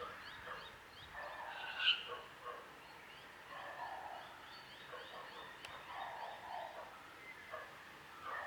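Faint bird calls: many short, rapid chirps with a warbling undertone.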